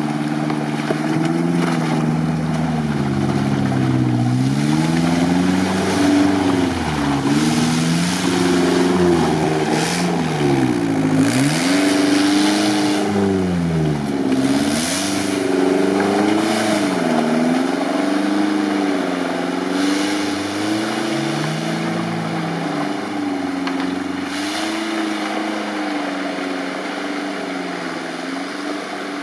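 An off-road 4x4's engine revving up and down again and again as the vehicle struggles to drive out of deep mud, settling to a steadier note near the end. Bursts of hiss come through the middle.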